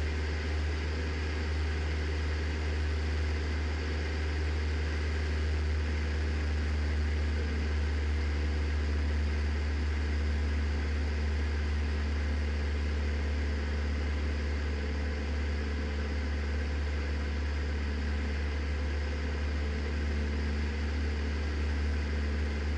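Cessna 172's four-cylinder piston engine and propeller droning steadily in level flight, heard in the cabin, with no change in power.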